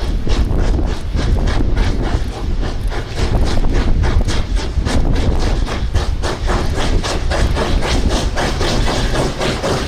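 A train running, with a fast, even rhythm of sharp beats over a strong low rumble.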